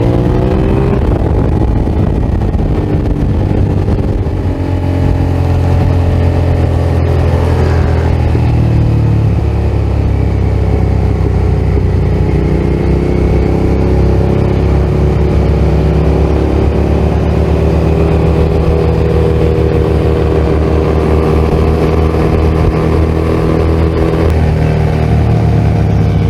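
Motorcycle engine running under way on the road, rising in pitch as it accelerates at the start, then holding a steady loud note with shifts in pitch as the throttle changes.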